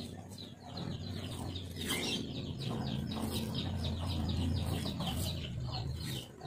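Birds chirping rapidly, several short high calls a second, over a low hum that swells through the middle and fades near the end.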